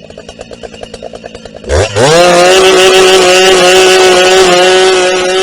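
Husqvarna 380 CD two-stroke chainsaw idling with a rapid, even putter, then throttled up sharply a little under two seconds in and held at a steady high pitch at full revs, easing slightly near the end.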